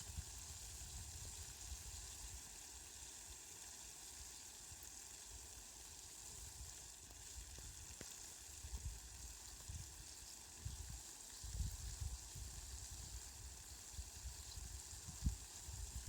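Steady rain falling, a fine even hiss, with a low rumble that comes and goes, stronger in the second half.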